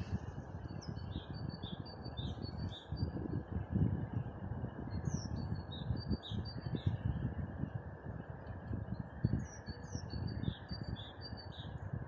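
A songbird sings the same phrase of a dozen or so quick, high notes three times, each phrase about two seconds long and a few seconds apart, over a steady low rushing noise.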